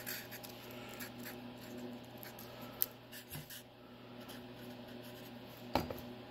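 Light scratching and rubbing of a template being handled on a workbench, with a sharp click about three seconds in and a knock near the end, over a faint steady hum.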